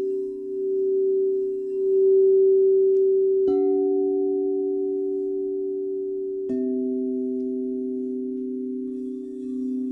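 Crystal singing bowls ringing with steady, pure, overlapping tones that swell and fade slowly. A bowl is struck about three and a half seconds in and another about three seconds later, each adding a new, slightly lower ringing note.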